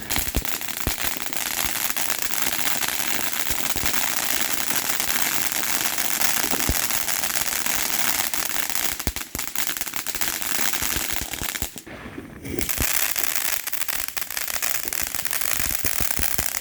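Fireworks going off in a dense, continuous crackle of rapid pops, like a long string of firecrackers. There is a brief lull about twelve seconds in.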